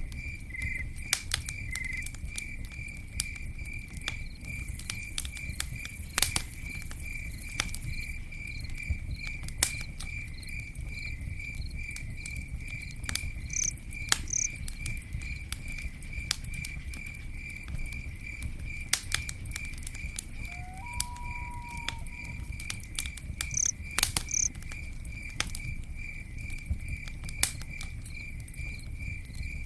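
Campfire burning with a low rumble and irregular sharp crackles and pops of burning wood. A cricket chirps steadily in a high, even pulse about twice a second throughout.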